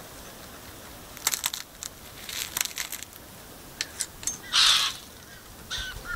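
Dry biscuits crunching and crinkling in short bursts of clicks as they are broken up for feeding. Near the end come a harsh rasping call and short calls from white-winged choughs.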